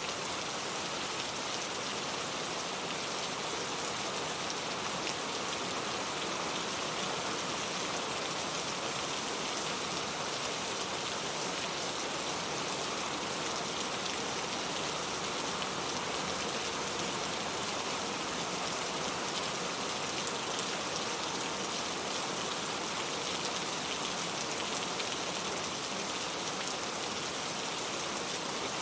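Steady rain falling, a constant even hiss with fine drop patter throughout.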